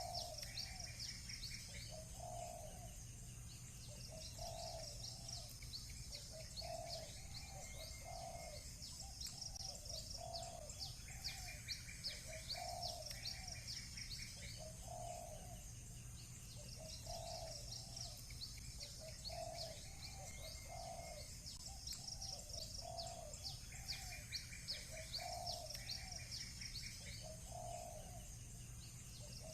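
Doves cooing in a steady run of low notes about one a second, over repeated bouts of fast, high chirping from small birds. A faint steady low hum lies underneath.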